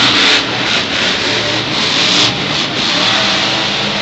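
Monster truck engine running loud at high revs, revving.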